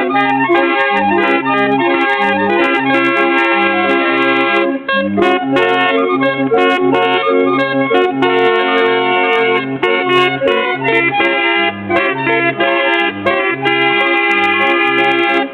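Chilean street barrel organ (organillo) playing a tune: reedy, accordion-like sustained chords over a regular bouncing bass, with a brief break about five seconds in.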